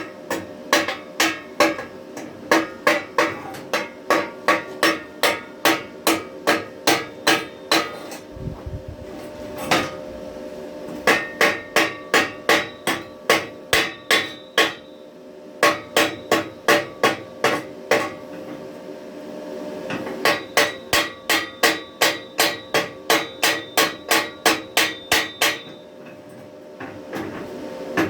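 Chipping hammer knocking slag off a fresh stick weld on a steel handle: runs of quick, sharp metal strikes, about three a second, with the steel ringing, broken by several short pauses.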